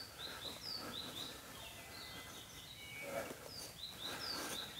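Bird calling faintly: a series of short, high chirps that each drop in pitch, about two a second, over quiet outdoor background hiss.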